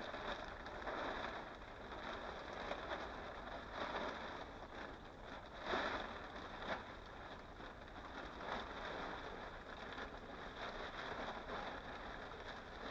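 Steady rustling noise with several brief louder scrapes, the loudest about six seconds in.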